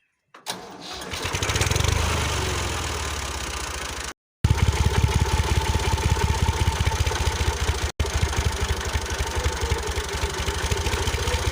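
Small electric motor of a homemade miniature machine spinning up, then running with a fast, even rattling whir. The sound breaks off sharply twice.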